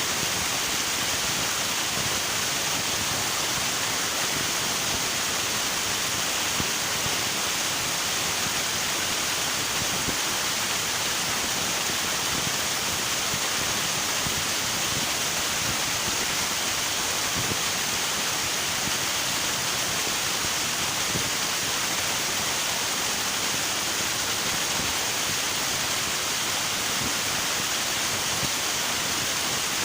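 River water rushing steadily, an even, unbroken hiss of flowing water with no individual splashes or events standing out.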